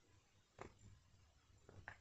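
Near silence with three faint short taps: one about half a second in and two close together near the end.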